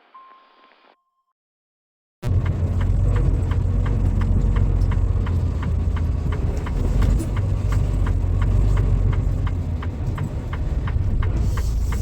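Truck running, heard from inside the cab: a steady low engine and road rumble with a regular ticking over it, starting suddenly about two seconds in after a brief silence.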